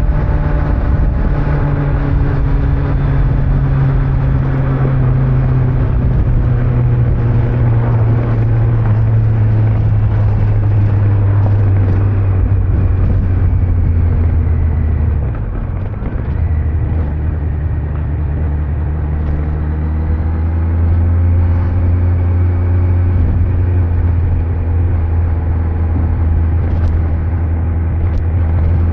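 Kawasaki Z900's inline-four engine running on the road with wind and tyre noise. Its note slowly falls over the first half, drops in level briefly about halfway through, then holds a steady lower pitch that edges up again near the end.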